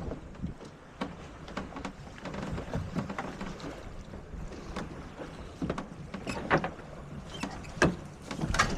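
Sailboat under way: a low rush of wind and water with irregular clicks and knocks from the deck gear and rigging, a few sharper knocks near the end.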